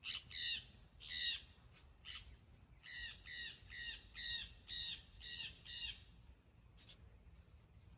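Small parrots (ararinhas) squawking: a run of harsh, rapid calls, about two a second, that stops about six seconds in.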